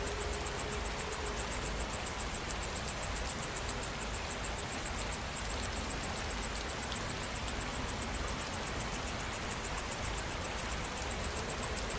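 Steady rain falling, with an insect's high, rapidly pulsing trill over it that pauses briefly about five seconds in.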